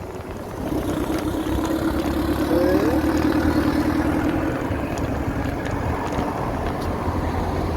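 Wind and road noise from riding an electric motorbike in traffic, a steady low rumble. A steady hum lasts for the first few seconds, with a short rising tone about two and a half seconds in.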